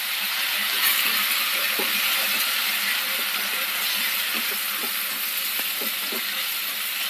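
Jackfruit seed stir-fry sizzling in a hot frying pan just after a splash of water is added, while a wooden spatula stirs through it with a few soft knocks. The hiss swells about a second in, then slowly fades.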